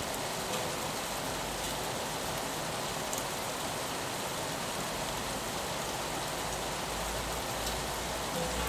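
Steady rain on a window: an even hiss with scattered drop ticks. A low rumble swells in about two seconds before the end.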